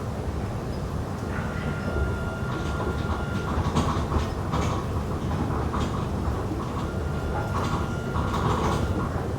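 Airport SkyTrain people mover running between stops: a steady low rumble with scattered knocks and rattles, and a thin high whine that comes in twice.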